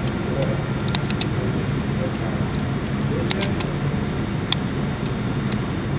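Steady mechanical hum of an indoor shooting range's ventilation, with scattered light clicks and ticks, a few of them in quick clusters about a second in and again a little past three seconds; no gunshots.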